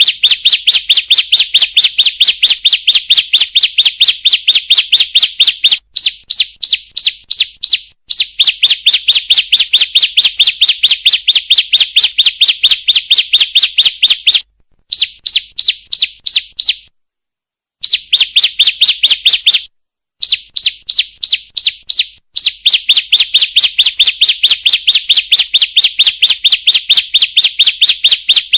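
Female bar-winged prinia (ciblek) calling: a fast, even run of sharp, high chip notes, about five a second, in bouts of several seconds broken by short pauses. This is the female's call used as a lure to draw in males.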